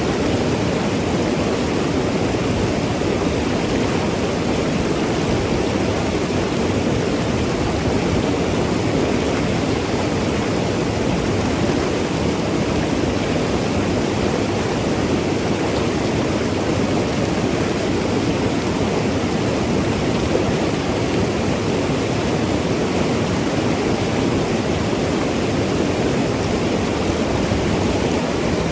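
Mountain river rushing and gurgling over rocks: a steady, even wash of water noise.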